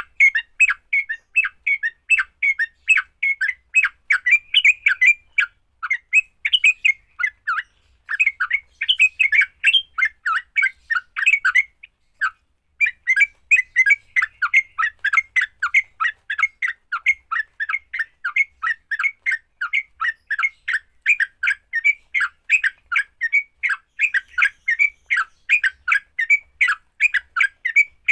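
Yellow-vented bulbul (trucukan) calling its harsh, rapid 'fighting' chatter, short notes repeated about three times a second, with brief pauses about eight and twelve seconds in.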